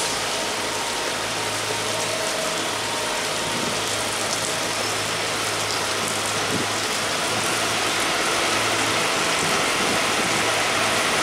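Heavy rain falling steadily, with the low hum of an approaching diesel locomotive underneath, growing a little louder toward the end.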